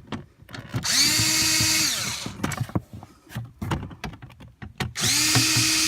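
Cordless drill/driver backing out two Phillips screws: two runs of about a second each, each spinning up to a steady whine and then winding down, with small clicks of the screws and panel between them.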